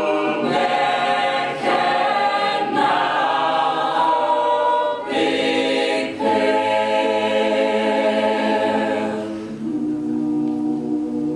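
A cappella vocal group singing held chords in close harmony, with no instruments; the chords change every second or two and the singing grows softer near the end.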